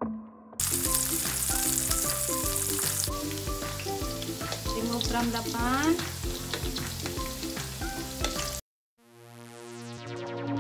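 Food sizzling as it fries in a pan. The sizzle starts suddenly about half a second in and cuts off abruptly near the end.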